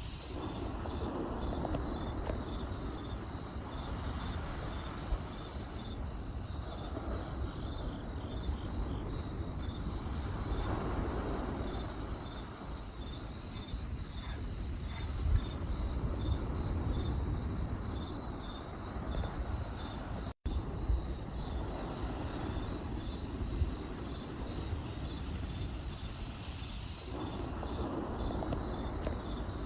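Crickets chirping in a steady, evenly pulsing high trill over the low, swelling rush of a campfire, with a few sharp crackles and pops from the burning wood. The sound cuts out for an instant about two-thirds of the way through.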